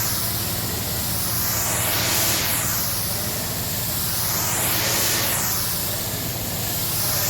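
Pressure washer jet spraying a truck, a steady loud hiss over the pump's low hum. The hiss swells and fades about every three seconds as the wand is swept back and forth.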